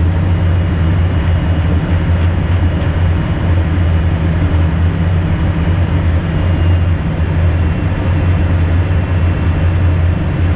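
Cabin noise in the cockpit of an Embraer Phenom twin-turbofan business jet in flight: a steady low hum under a continuous rush of airflow and engine noise.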